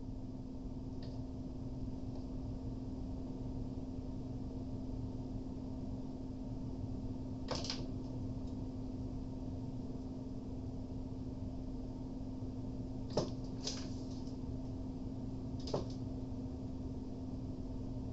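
A steady electrical hum on a repair bench, broken by four short sharp clicks: one about halfway through, two close together near the end, and one more just after.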